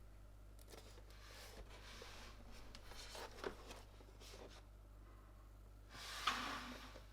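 Quiet handling of keyboard kit parts: scattered light clicks and faint scraping, with a louder rustle about six seconds in.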